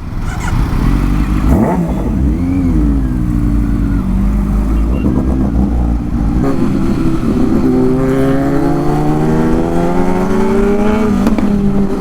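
Kawasaki inline-four sport motorcycle engine running, with a short rev about two seconds in. From about six and a half seconds its pitch climbs steadily for about four seconds, then drops sharply about eleven seconds in, as when pulling through a gear and shifting up.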